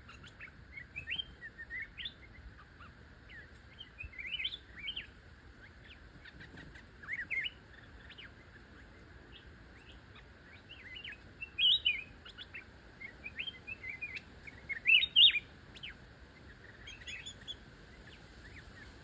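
Small songbird calling in bursts of quick chirps and short whistled notes, loudest about twelve and fifteen seconds in, over a steady faint high hiss.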